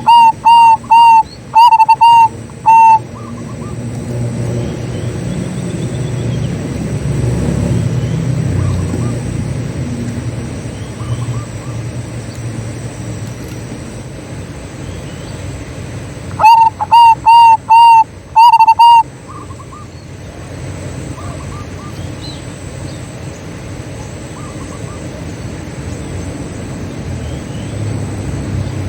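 Zebra dove (perkutut) cooing in two loud bouts of short, evenly repeated notes, one at the start and one about two-thirds of the way through. Between the bouts are a low background rumble and faint chirps of other birds.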